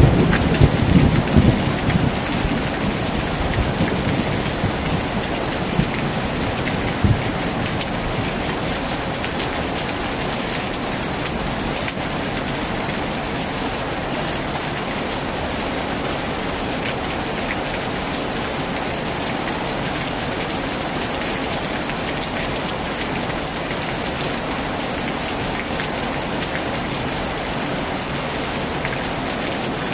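Heavy rain falling steadily on a tin roof, an even hiss throughout. A low thunder rumble dies away over the first couple of seconds.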